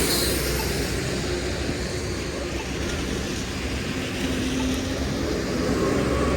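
Steady low rumble of vehicle traffic on a city street, with a faint steady hum.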